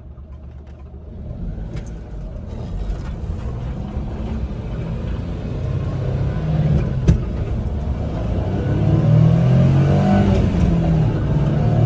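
1999 Suzuki Carry kei truck's small three-cylinder engine running and pulling away, getting steadily louder as it gathers speed, with a single sharp knock about seven seconds in.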